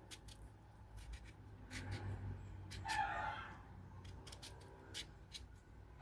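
A knife makes short crisp cuts and crunches through firm, unripe mango, a series of sharp clicks. A chicken calls once about halfway through, louder than the cutting.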